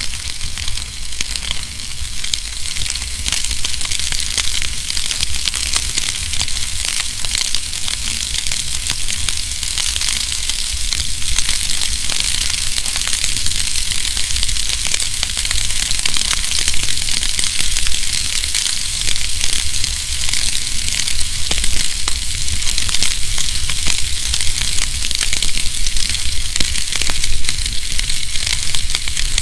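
Wood fire burning in a fireplace: a steady hiss with frequent small crackles and pops, and a low rumble underneath.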